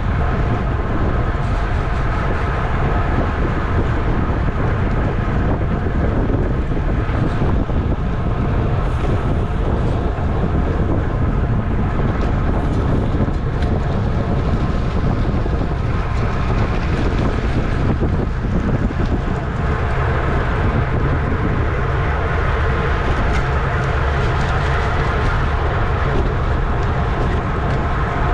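Heavy wind rushing over a camera mounted on a racing bicycle at speed, a steady low rumble with a faint steady whine on top.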